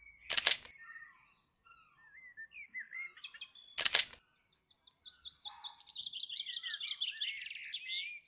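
Small birds chirping and whistling, with a rapid high trill through the second half. Two sharp clicks stand out as the loudest sounds, one near the start and one about four seconds in.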